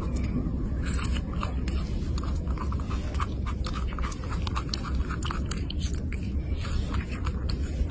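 An animal chewing: a quick, irregular run of crunching clicks over a steady low hum.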